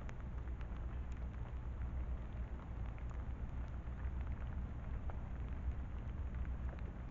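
Rain pattering steadily, with scattered sharp drop ticks, over a steady low hum.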